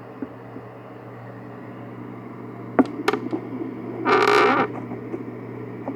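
Steady low electrical hum of a running appliance. Two sharp clicks come about three seconds in, then a short loud breathy burst lasting about half a second.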